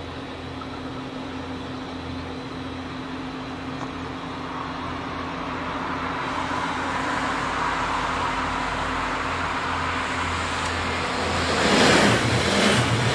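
Red regional electric multiple unit approaching on the line, its rolling noise building steadily, then passing close by near the end with loud wheel-on-rail noise and a series of pulses as the bogies go by.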